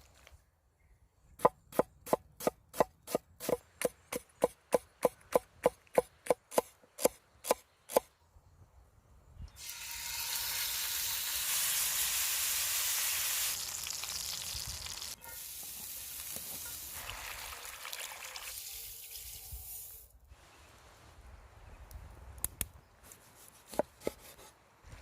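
Knife chopping on a cutting board in steady strokes, about three a second. Then food goes into a hot pan and sizzles loudly, easing to a lower, steady sizzle. A few light clinks come near the end.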